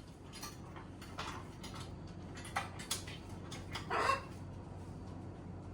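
Military macaw making a short, low call about four seconds in, among faint scattered clicks and scrapes.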